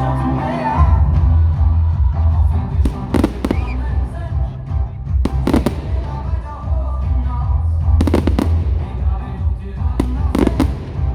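Aerial firework shells bursting with sharp bangs in clusters of two or three, every two to three seconds, over loud music with a heavy bass.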